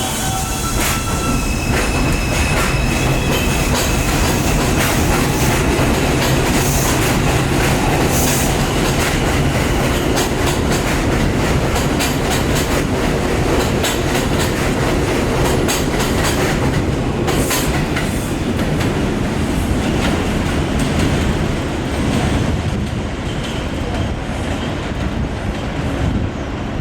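New York City subway train of R142 cars pulling out and running on the rails, wheels clacking over the rail joints with some wheel squeal, the level holding steady throughout.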